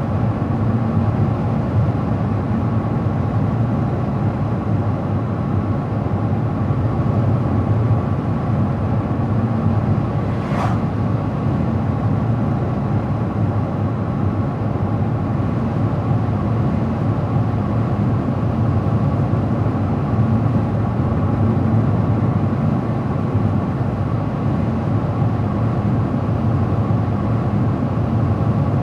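Car driving at steady road speed: an even drone of tyre, road and engine noise. There is one short click about ten seconds in.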